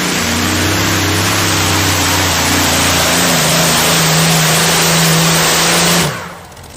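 Modified pulling tractor engine running flat out under load, a loud dense roar with its pitch stepping up about three seconds in. The sound drops away sharply near the end.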